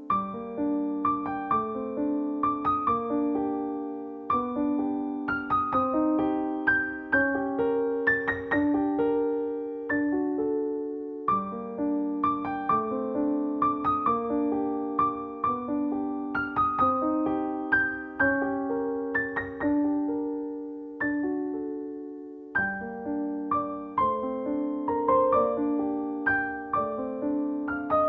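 Soft solo piano music: a gentle melody of struck notes over sustained chords.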